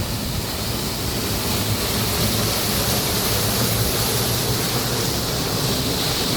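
Steady rushing noise of water, with no breaks or distinct strikes.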